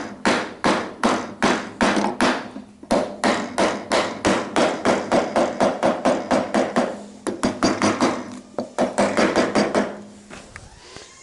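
A mallet tapping a tenon down into its mortise: a fast run of light strikes on wood, about four a second, with a short break about three seconds in, slowing and stopping near the end.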